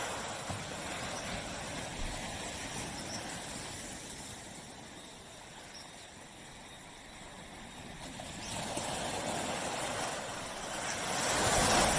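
Small waves breaking and washing up on a tropical beach: the surf swells at the start, eases off in the middle, and builds to a louder break near the end.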